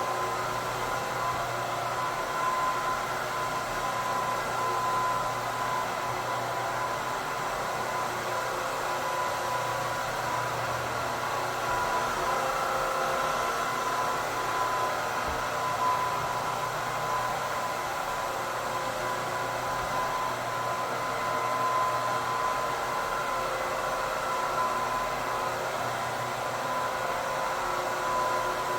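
Rotary floor buffer running steadily with a screening pad, abrading the old finish on a hardwood floor, a constant motor hum with a steady whine.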